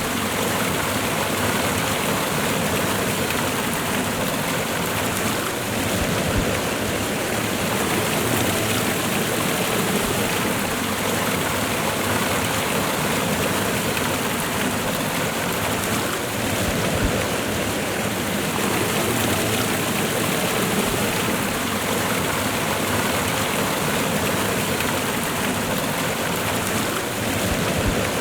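Waterfall and river water rushing steadily, a dense even roar of falling and running water.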